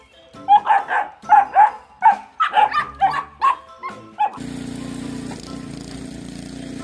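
A dog barking in a quick run of about a dozen barks. About four seconds in it cuts off sharply and is replaced by a steady low hum.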